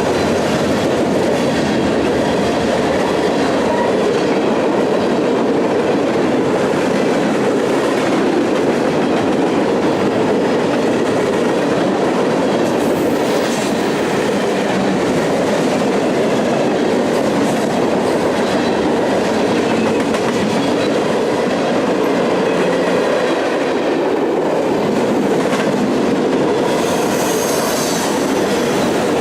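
Railroad cars of a passing train rolling by, wheels clattering steadily over the rails, with a brief high-pitched wheel squeal near the end.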